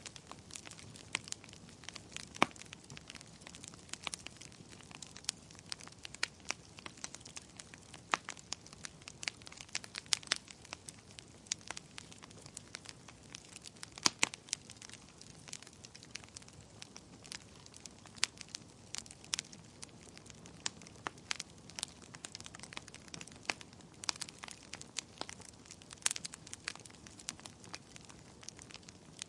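Wood fire crackling: irregular sharp pops and snaps over a soft steady hiss, with a few louder pops.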